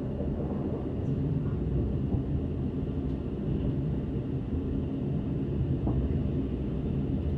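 Steady rumble of a passenger train running along the track, heard from inside the carriage, with a few faint clicks.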